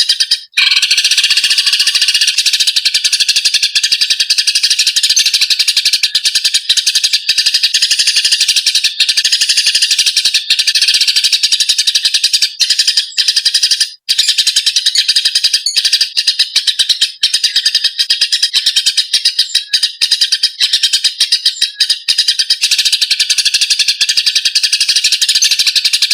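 Eurasian tree sparrows in a fighting chatter: a dense, rapid, unbroken string of sharp chirps from several birds at once. It cuts out for an instant just after the start and again about halfway through.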